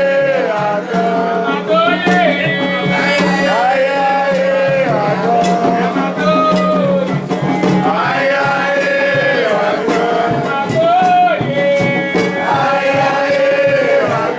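Singing with percussion: a voice sings phrases of long held and sliding notes over a steady beat of drum strikes.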